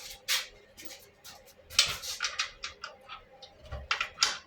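Bolts being fitted into a mini bike's motor mount: a series of short clicks and scrapes, clustered about two seconds in and again near the end.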